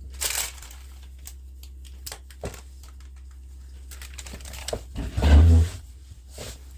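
Rustling and scattered clicks of groceries and bags being handled, with a short pitched sound, like a wordless vocal sound, about five seconds in that is the loudest thing heard.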